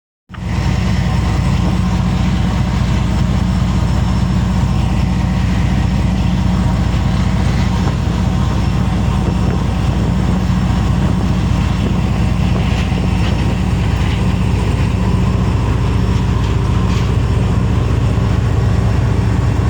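A fishing boat's engine running steadily at constant speed: a loud, even, low drone.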